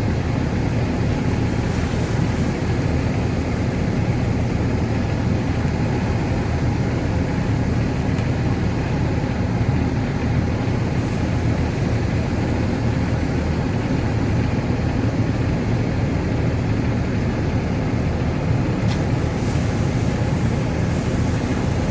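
Fire engine's engine running with a steady, loud rumble, heard up close and not changing through the whole stretch.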